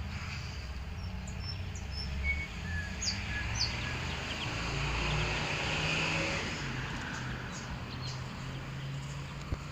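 Scattered short, high chirps and whistled notes from a singing bird, likely the common nightingale, over a steady low background rumble. A broad rushing noise swells and fades in the middle.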